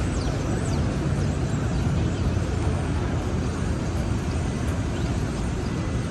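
Steady city street traffic noise: a dense, unbroken wash of passing vehicles.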